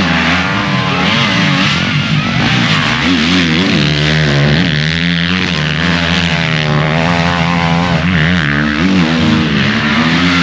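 Several motorcycle engines racing, their revs rising and falling continuously as the bikes run and change throttle.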